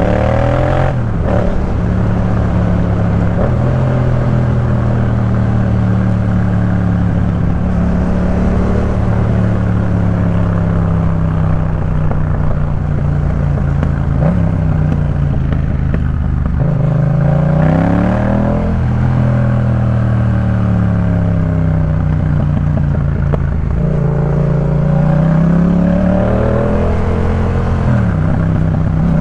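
Yamaha MT-07's parallel-twin engine through a Jeskap K4 full aftermarket exhaust while being ridden: a steady cruising note whose pitch falls and climbs again a few times as the rider changes speed and gears, most plainly a little past the middle.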